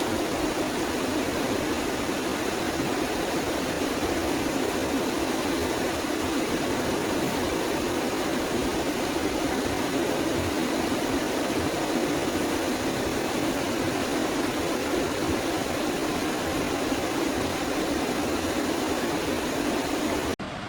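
Steady forest ambience: an even rushing noise, fullest in the lower-middle range, with no distinct bird calls. It cuts off abruptly near the end into a quieter, thinner ambience.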